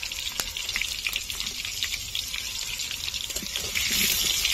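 Potato pieces frying in hot oil in a kadai: a steady sizzle with small crackles that grows louder about four seconds in.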